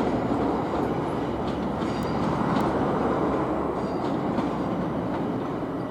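Class 377 Electrostar electric multiple unit running past on the track below, a steady rumble of wheels on rail with a few faint clicks.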